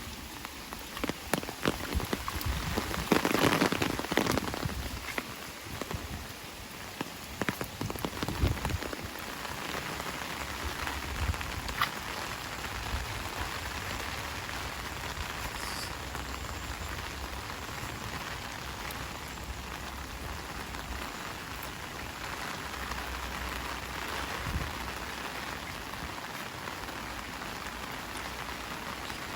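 Heavy rain falling steadily, with louder uneven spatters and drips during the first several seconds.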